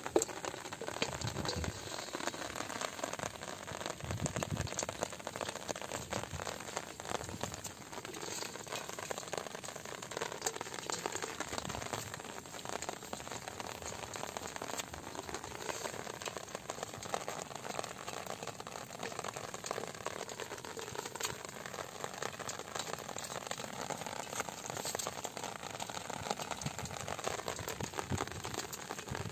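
Steady rain falling on wet grass and shallow puddles: a dense, even hiss of many small drop hits that holds at the same level throughout.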